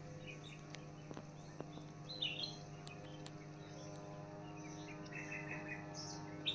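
Wild birds chirping faintly, a few short twittering phrases now and then, over a steady low hum.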